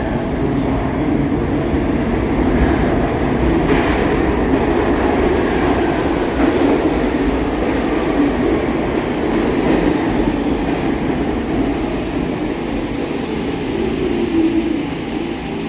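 New York City subway train running along the track, with steady wheel and track noise throughout.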